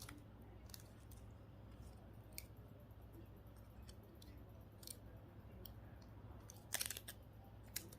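Mostly quiet handling of a small circuit board and its parts, with faint scattered clicks and a short burst of louder clicks about three-quarters of the way through.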